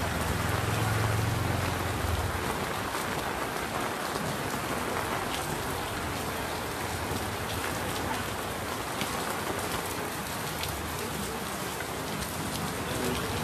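Steady rain on a paved alley, an even hiss with scattered sharp drip ticks. A motorbike engine hums low as it passes close in the first two seconds.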